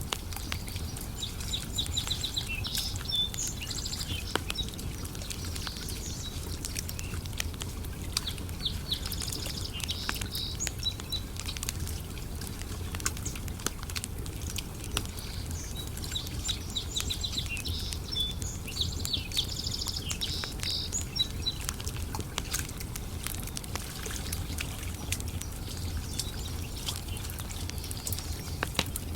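Campfire crackling, with sharp pops scattered irregularly over a steady low rumble. A bird sings three bouts of quick, repeated high phrases.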